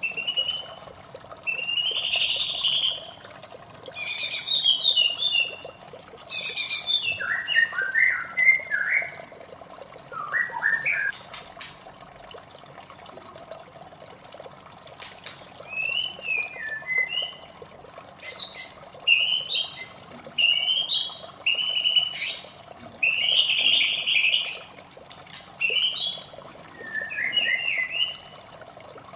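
White-rumped shama singing, bursts of varied quick whistled phrases and rattling notes with a few seconds' pause in the middle, over a steady trickle of running water.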